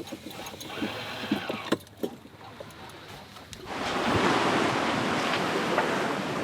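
Wind and sea water rushing past a sailboat under sail, with wind on the microphone, setting in suddenly about four seconds in. Before that it is quieter, with scattered light clicks and knocks.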